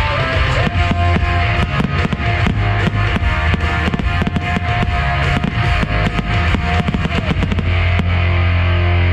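Rock music with guitar and drums played for a pyromusical, mixed with many sharp firework bangs and crackles. Near the end the bursts stop and a steady, held low chord carries on.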